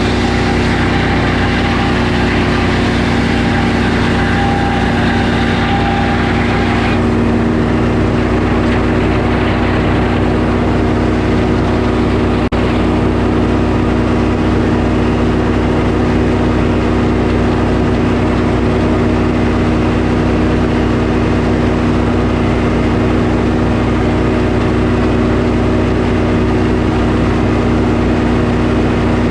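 Sawmill's engine running steadily while milling a pine log; a higher hiss with a faint whine drops away abruptly about seven seconds in, leaving the engine running on alone.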